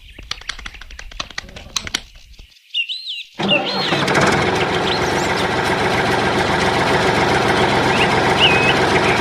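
Scattered clicks, then the motor of a DIY mini tractor starts suddenly about three and a half seconds in and runs at a steady pitch. Birds chirp over it.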